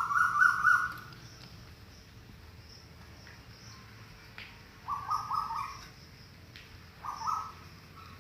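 Three short, high-pitched animal calls: one at the start, one about five seconds in and a shorter one about seven seconds in, with a low steady background between them.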